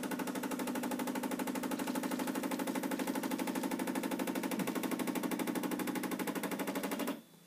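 Bosch Tassimo Fidelia pod coffee machine's pump running while it brews an espresso pod, a steady rapid pulsing buzz that cuts off suddenly near the end as the brew finishes.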